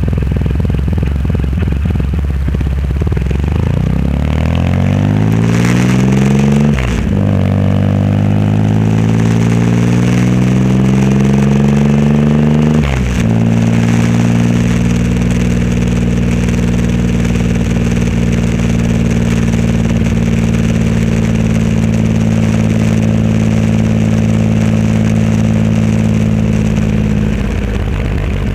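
Triumph Rocket 3 Roadster's 2.3-litre three-cylinder engine through a custom exhaust, accelerating hard. It rises in pitch, shifts up twice with a brief break each time, then cruises at a steady pitch and eases off near the end.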